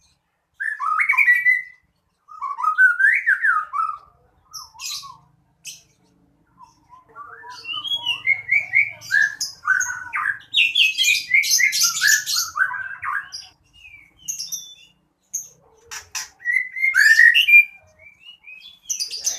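A songbird singing in bursts of quick sliding whistles and chirps, with its longest, busiest run of song in the middle.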